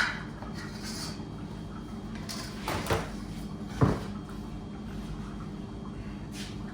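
Three knocks or clunks of things being handled, at the start, about three seconds in and about a second later, over a steady low hum.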